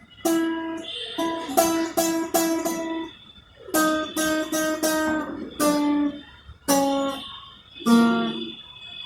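Guitar played one note at a time: about a dozen single plucked notes in short groups, several repeated, each ringing briefly. The notes are fretted at different places to show how string length changes the pitch.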